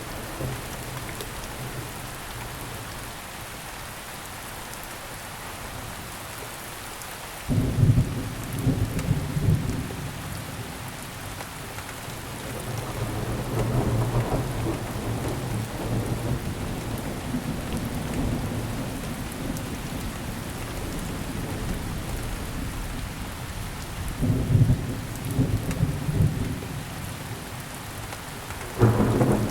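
Thunderstorm: steady rain hissing, with rolls of thunder. A sudden loud thunderclap breaks in about a quarter of the way through, a long rolling rumble follows in the middle, and two more sharp claps come near the end.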